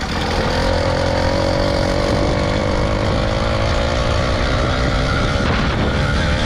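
Small gas engine of a motorized bike running steadily under way, a constant drone that climbs a little in pitch in the first second and then holds level.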